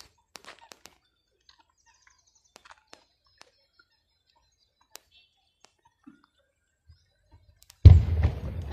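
Faint outdoor quiet with a few high, quick bird chirps and small scattered clicks. Near the end a sudden loud rumbling burst of noise hits the microphone and fades over about a second.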